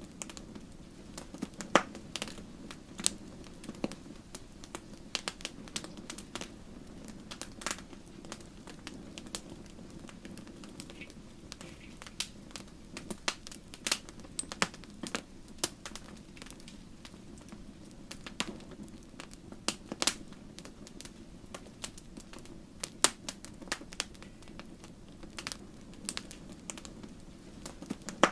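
Logs burning in a fireplace with irregular sharp crackles and pops, sometimes several close together, a few much louder than the rest. Under them runs a steady low rumble.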